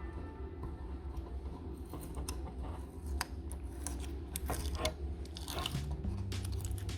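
Irregular sharp clicks and short scraping or crunching sounds from hand work with tools or material, over a steady low hum.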